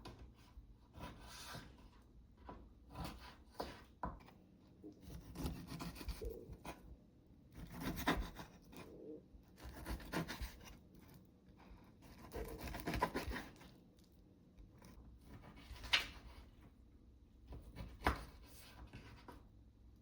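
Irregular rubbing and scraping strokes, one every second or two, with a couple of sharp knocks in the second half.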